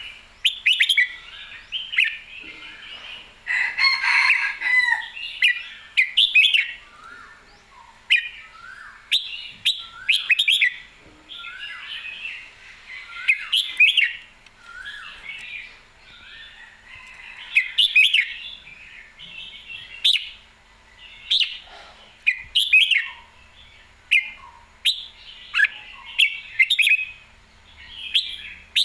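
Red-whiskered bulbul singing: short, bright warbling phrases repeated every second or two, lively and unbroken, with scattered sharp clicks between them.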